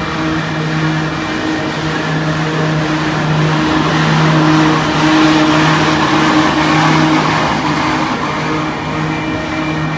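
Long autorack freight train rolling through a grade crossing: a steady rumble of wheels on rail that swells through the middle and eases off again, over steady ringing tones.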